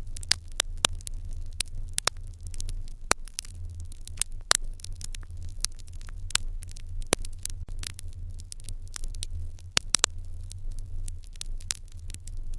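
Wood fire burning in an irori hearth: irregular crackling with sharp pops, several to a second, over a low steady rumble of the flames. The loudest pops come about four and a half seconds in and as a quick pair near ten seconds.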